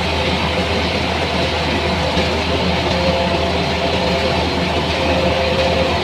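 A heavy engine-driven machine, such as a combine harvester or a rice thresher, running steadily with a constant low hum and a loud rushing noise.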